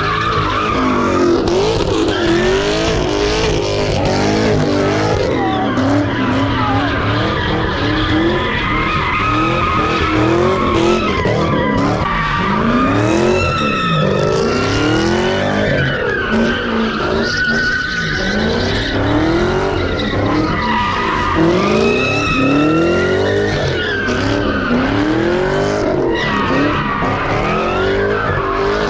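A car doing donuts or a burnout: the engine revs up and falls back over and over, every second or two, while the tyres squeal without a break.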